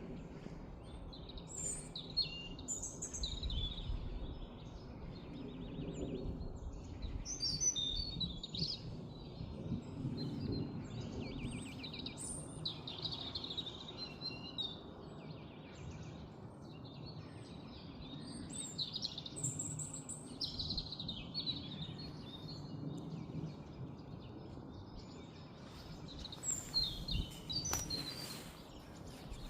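Several songbirds singing in a forest, with overlapping chirps, whistled phrases and short buzzy trills, over a steady low background rumble.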